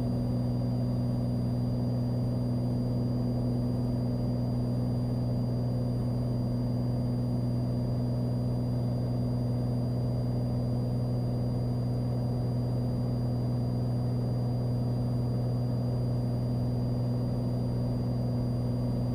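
Steady drone of a Cessna 182's six-cylinder piston engine and propeller heard in the cockpit during the climb, unchanging throughout, with a faint high steady whine over it.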